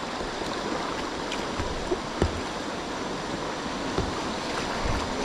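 Rushing river water at a rapid or small waterfall, a steady hiss, with a few brief sharp sounds over it.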